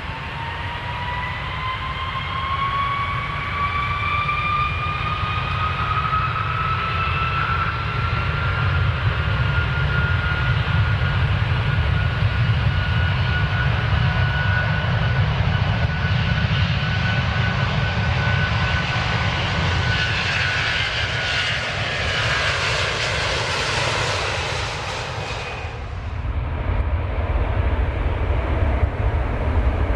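Aircraft engine running with a roar and a whine that rises in pitch, then holds, growing hissier before it cuts off suddenly near the end. A different low rumble follows.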